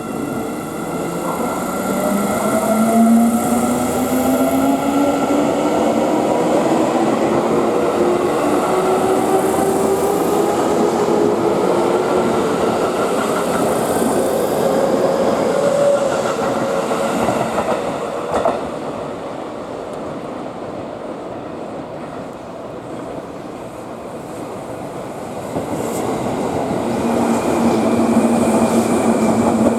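Seibu 9000-series electric train pulling away: its motor whine rises steadily in pitch as it accelerates, over the rumble of the wheels on the rails. The whine fades as the train goes, then a louder, steadier train noise builds again near the end.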